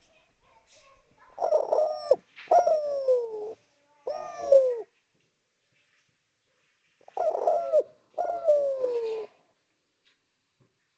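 Spotted dove (derkuku) singing: a phrase of three cooing notes, then after a pause of about two seconds a phrase of two. Each note slides down in pitch.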